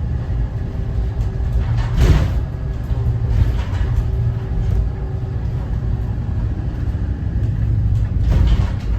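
Thomas Saf-T-Liner C2 school bus under way, its Cummins ISB 6.7 diesel engine giving a steady low rumble with a faint steady whine over it. A sharp rattle or clunk comes about two seconds in and again near the end, like the body jolting over bumps.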